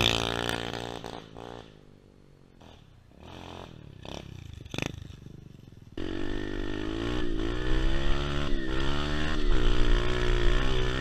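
SSR 125 pit bike's small single-cylinder four-stroke engine, loud at first and fading over the first couple of seconds. After a quieter stretch with a few clicks, it cuts back in suddenly about six seconds in, running with revs rising and falling, with wind buffeting the microphone.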